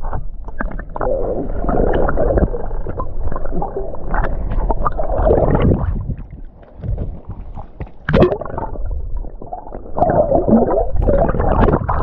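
Strong wind buffeting the microphone in gusts, with sea water sloshing and gurgling around the rocks. It eases briefly midway, then picks up again about two seconds later.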